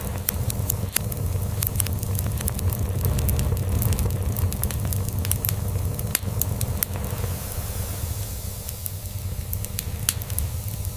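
Crackling log fire: many sharp, irregular pops and snaps over a steady low rumble.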